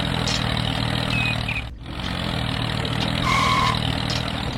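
Mini tractor engine running steadily, cut briefly just under two seconds in, with a short high chirp a little after three seconds.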